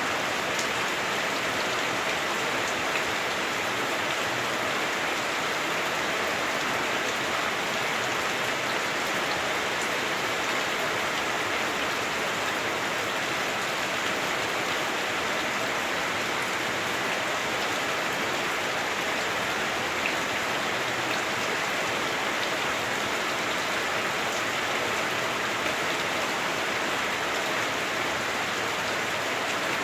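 Heavy rain drumming steadily on a house roof, heard from inside the house, a dense even hiss with scattered drop ticks.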